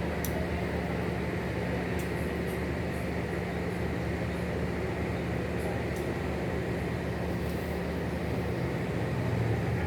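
Steady low hum and rumble inside a train carriage, with a few faint clicks.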